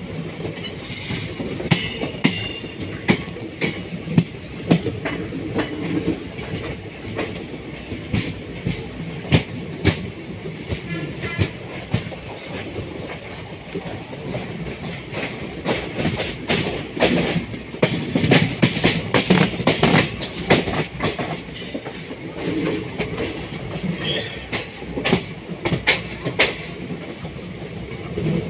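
Passenger train running along the track, heard from inside the coach: a steady rumble with frequent, irregular clicks and clatter of the wheels over rail joints.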